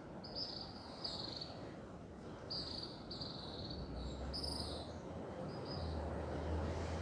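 Outdoor ambience: a run of short, high chirps, from insects or birds, over a steady hiss. A low hum rises from about four seconds in.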